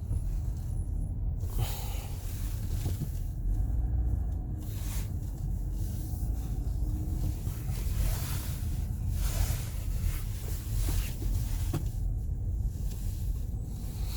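Dodge Grand Caravan driving slowly, heard inside the cabin: a steady low rumble of engine and road noise, with a soft airy hiss rising and falling.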